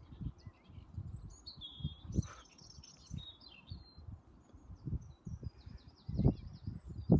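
Small birds chirping and trilling in short high phrases, over irregular low rumbling on the microphone that swells several times, strongest near the end.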